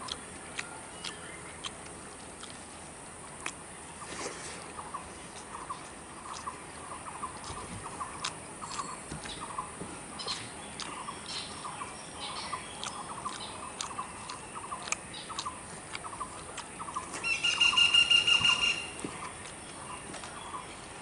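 Birds calling: a run of short chirps repeating several times a second, and about three-quarters of the way through one loud, steady call lasting a second and a half, the loudest sound here. Faint clicks and smacks of rice being mixed by hand and eaten run underneath.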